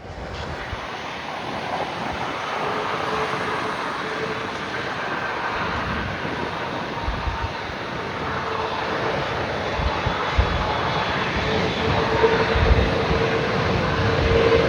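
Jet engines of an Airbus A330 freighter, Rolls-Royce Trent turbofans, running at low power: a steady whine over a broad rush of noise, slowly growing louder.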